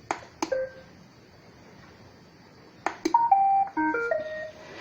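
iRobot Roomba robot vacuum being started: two button clicks, the second followed by a short beep. A second later come two more clicks and the Roomba's start-up tune, a quick run of electronic beeps stepping up and down in pitch.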